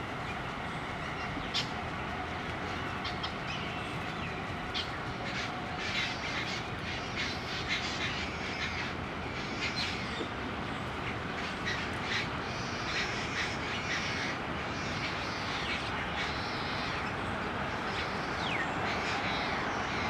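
Wild birds giving many short, repeated calls over a steady background hum.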